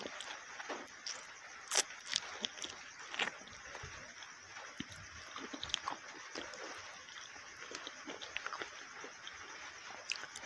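Close-miked mouth sounds of eating saucy masala chicken wings and chips: wet chewing and lip smacking with irregular sharp clicks, the loudest about two and three seconds in.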